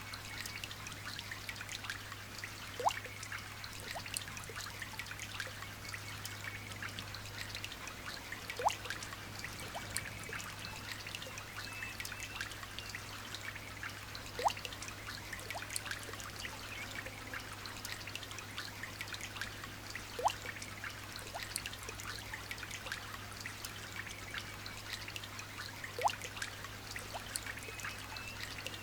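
Light rain trickling and dripping as a steady patter of small drops, with a louder single drop falling about every six seconds.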